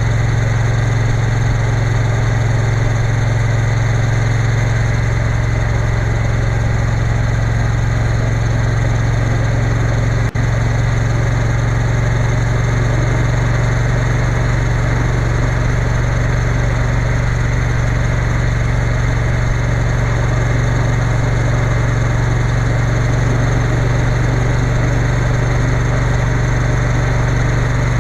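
Triumph Bonneville T120 parallel-twin engine running at a steady cruise under way, with wind rushing over the microphone. A momentary dropout about ten seconds in.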